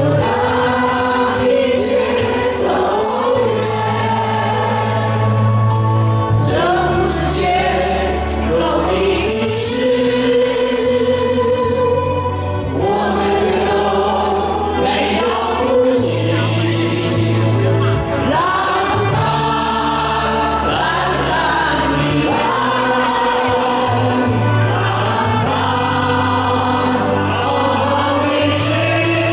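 Many voices singing a song together over a band accompaniment, with bass notes held a couple of seconds each.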